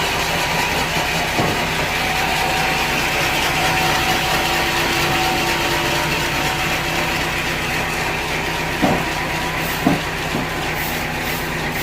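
Engine running steadily, with three short knocks: one early on and two close together later.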